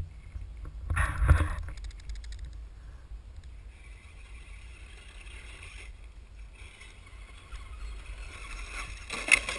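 Electric radio-controlled truck driving over rough ground, with loud jolts about a second in and near the end, over a steady low rumble of wind on the microphone.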